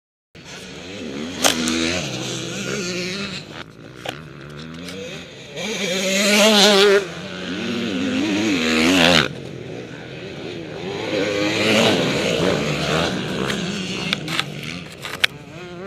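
Motocross motorcycle engines revving hard, pitch rising and falling repeatedly, loudest about six to nine seconds in and cutting off sharply just after that, with a few sharp clicks.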